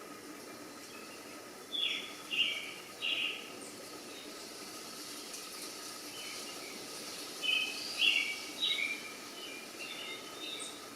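Bird calls: two bursts of three or four short chirps, one about two seconds in and another about eight seconds in, over steady outdoor background noise with a faint constant hum.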